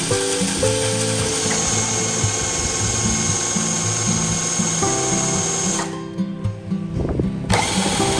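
Background music with a steady beat over a power tool running with a high whine. The tool noise cuts out for about a second and a half near the end, then returns.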